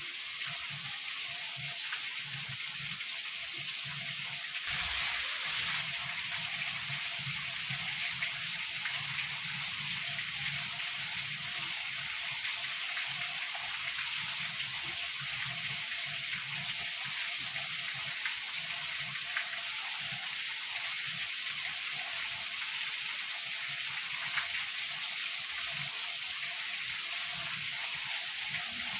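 Heavy rain falling steadily in an even hiss, with one louder surge lasting about a second near five seconds in.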